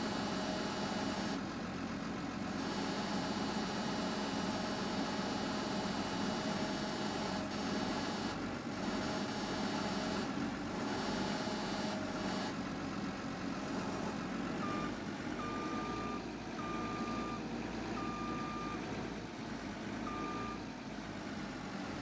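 Heavy truck engine running steadily, with a reversing alarm beeping in short, evenly pitched beeps from about two-thirds of the way through.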